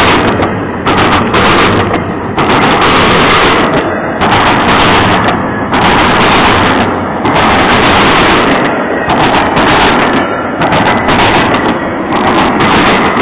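Double-stack intermodal freight train's container well cars passing at very close range: a loud, distorted rush of wheels, rail and air that overloads the microphone, surging and briefly dipping every second or so.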